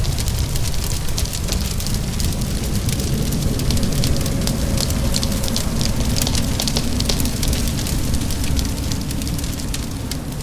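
Wood fire crackling with frequent sharp pops over a steady wash of rain.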